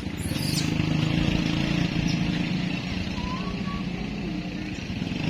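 A motor running steadily: a low, pulsing hum with a fainter, higher whine above it.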